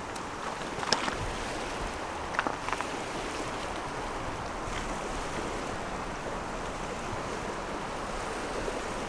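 Steady wash of sea waves on the shore, with a few short sharp clicks about a second in and again around two and a half seconds in.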